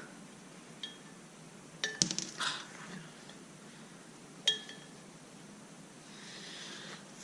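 Metal tools and bike parts clinking as work goes on at the dirt bike's rear wheel: a light clink about a second in, a cluster of clinks around two seconds, and a single ringing clink about four and a half seconds in.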